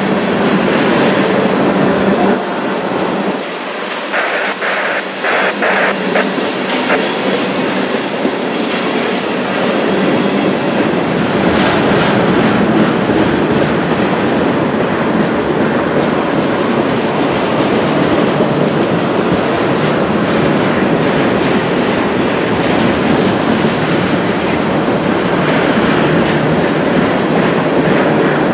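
Freight train cars rolling past, a loud steady rumble of steel wheels on rail with runs of clicks as wheels cross rail joints, about four seconds in and again around twelve seconds.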